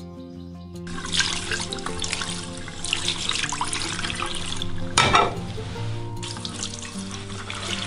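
Water running from a tap and splashing into a basin as small brinjals are rinsed by hand, starting about a second in, with one louder sudden splash-like sound about five seconds in. Background music plays throughout.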